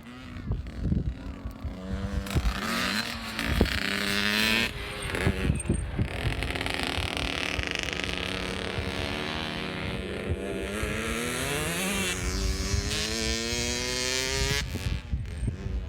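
Yamaha PW50 mini dirt bike's small two-stroke engine revving as it rides, its pitch rising and falling with the throttle. It comes up about two seconds in and drops away near the end.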